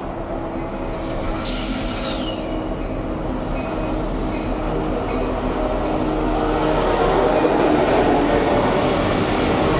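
Freight train rolling past, its wheel and car noise building steadily louder, with a brief hiss about a second and a half in.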